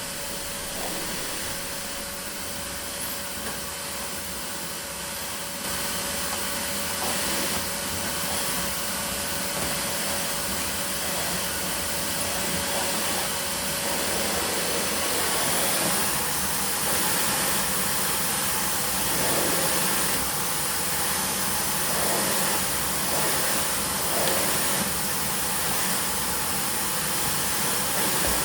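Vacuum cleaner running steadily with a whining hiss, getting louder about halfway through.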